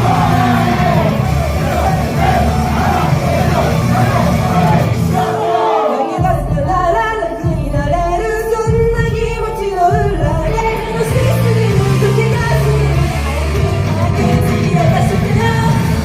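Pop song with a heavy beat and group singing, played over a hall's sound system. About six seconds in, the beat drops out for a lighter sung passage, and the full mix comes back about four seconds later.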